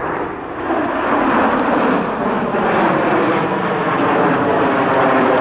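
Red Arrows BAE Hawk T1 jets, Adour turbofans, flying by at a display: a loud, steady jet roar that swells about a second in and then holds.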